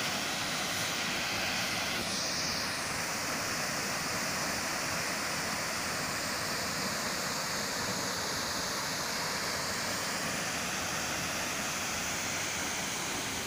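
A waterfall's falling water rushing steadily.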